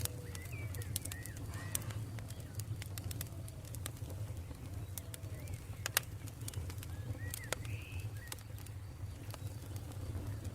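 Campfire burning with frequent sharp crackles and pops over a steady low rumble, the loudest pop about six seconds in, while birds call now and then in the background.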